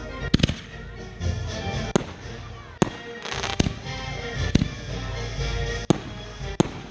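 Fireworks bursting overhead: about eight sharp bangs at uneven intervals, with a short crackle about halfway through, over music playing throughout.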